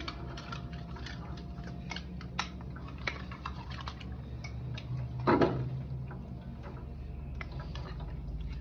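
Tractor engine, newly fitted with piston rings, running steadily with a fast, irregular ticking over its low hum. One louder thump about five seconds in.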